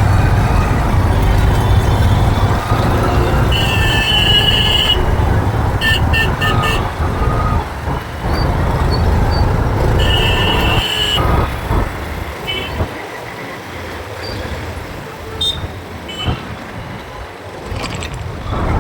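City road traffic heard from a moving motorbike: a steady low rumble under vehicle horns honking, with a long honk about four seconds in, a quick run of four short toots around six seconds, and another long honk near ten seconds. The rumble eases after about eleven seconds.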